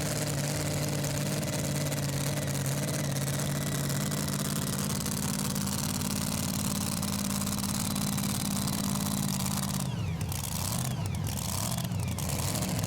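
Engine of a super modified two-wheel-drive pulling truck idling steadily, over a constant hiss of background noise. About ten seconds in, its pitch dips and wavers.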